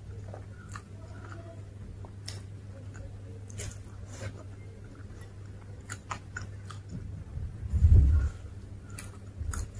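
Close-up mouth sounds of a person chewing crisp South Indian food such as dosa, with short crackles and clicks scattered throughout. A loud low thump comes about eight seconds in, as a torn piece of dosa is handled, and a smaller one near the end.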